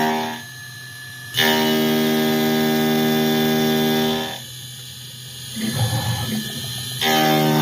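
Small CNC router's spindle driving a 5/8 inch fly cutter through 6061-T6 aluminium: a steady pitched tone with many overtones while the cutter is in the metal. It drops away twice, near the start and about four seconds in, leaving a quieter machine floor, and comes back as each cut resumes.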